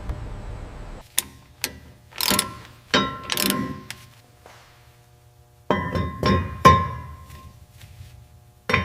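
A series of metal clanks and knocks from assembly work, some ringing briefly, coming in two clusters with a pause between. A low hum runs under the first second.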